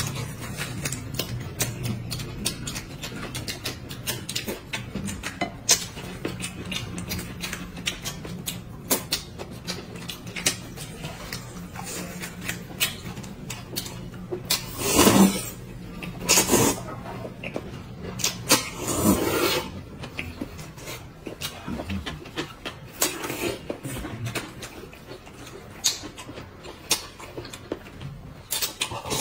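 Close-up eating sounds: chewing, smacking and slurping, with small clicks of chopsticks and dishes. There are a few louder slurps about halfway through.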